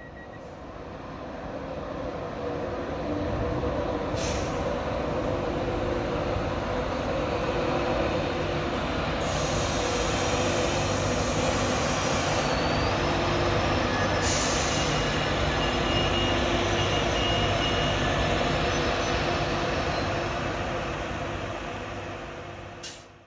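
Class 91 electric locomotive with its Intercity 225 coaches moving slowly through the station: a steady rumble and hum that builds over the first few seconds. In the middle there is a hiss lasting about three seconds, and after it come faint, brief high-pitched squeals.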